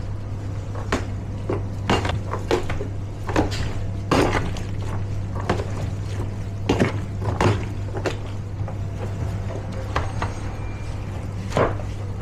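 Kitchen work: irregular knocks and clatters of containers and utensils being handled while pasta is packed, over a steady low hum of kitchen equipment.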